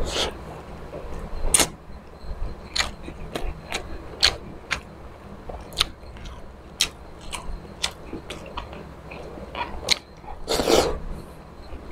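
Close-up eating sounds of a man chewing spicy squid adobo and milkfish: irregular sharp mouth clicks and smacks, with a louder, longer stretch of biting and chewing about ten and a half seconds in. A faint steady low hum runs underneath.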